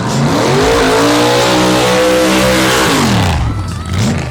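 Drag-racing car's engine at full throttle going down the strip. The pitch climbs steeply at the start, holds high and loud, then drops away in a falling sweep as the car passes and pulls off into the distance.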